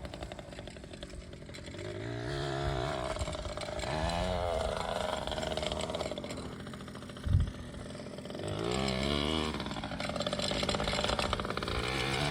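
Pit bike engine revving up and down as it rides, its pitch rising and falling several times, with a brief low thump about seven seconds in.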